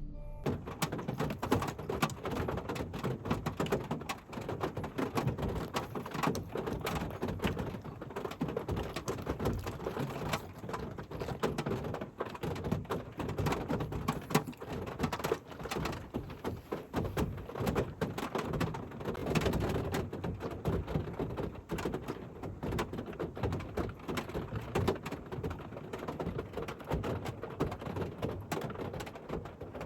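Autumn rain falling, a dense, irregular patter of drops.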